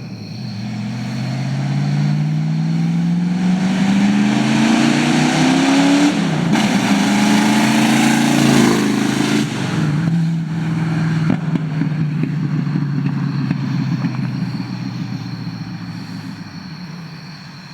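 Ford Mustang engine running loud on open headers with no exhaust: the engine note climbs steadily under acceleration for about six seconds, then settles to a steadier, lower note that gradually fades.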